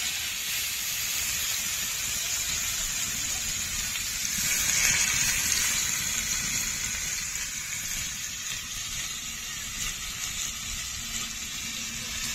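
Chicken stick kebabs sizzling steadily as they shallow-fry in a little oil in a pan, briefly louder about five seconds in.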